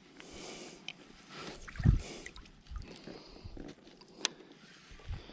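Gear being handled in a kayak: soft rustling, a dull thump about two seconds in, and a sharp click about a second before the end.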